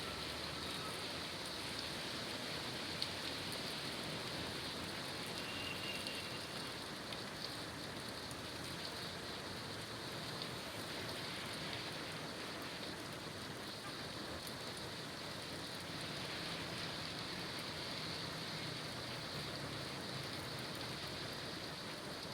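Steady rain falling, with a low rumble of city traffic underneath.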